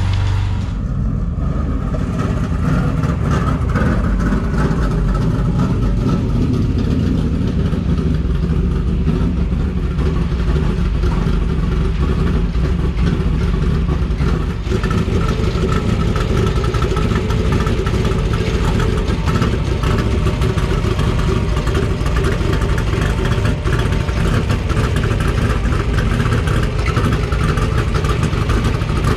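Truck engine running steadily, with a low drone and even road or engine noise that holds at one level throughout.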